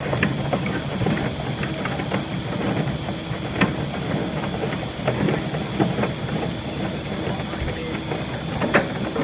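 Simex CBE 30 crushing bucket on an excavator crushing sandstone: a steady drone of the excavator's diesel engine and hydraulics, with frequent cracks and knocks of rock breaking and rattling in the bucket. The two sharpest cracks come about three and a half seconds in and near the end.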